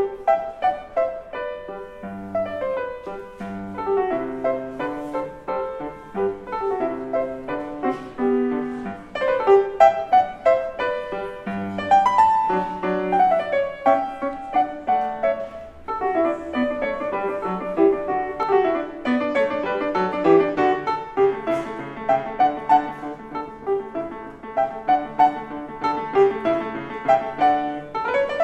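Piano playing a classical-style piece, with a steady flow of many notes in running passages.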